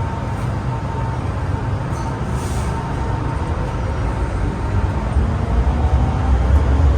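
MTR Island Line M-Train running, a steady low rumble with a faint steady whine, the rumble growing louder over the last couple of seconds.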